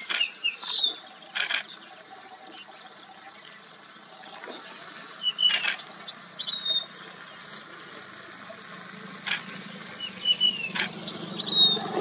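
Small songbird calling: a short phrase of high chirping notes ending in a falling note, given three times about five seconds apart. Several sharp clicks fall between the phrases.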